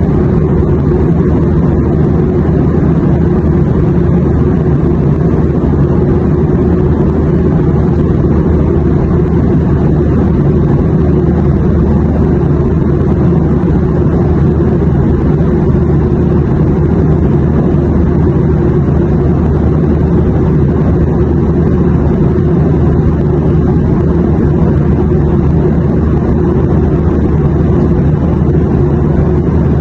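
Airplane in flight: a loud, steady, unchanging low rumble of engine and air noise, with a faint hum under it.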